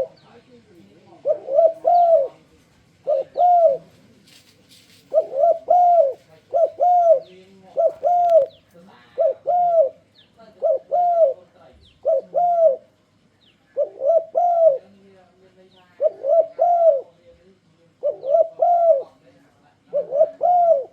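Spotted dove (tekukur) cooing: short phrases of two or three rounded coos, repeated every one to two seconds, used as a lure call to get other doves to answer.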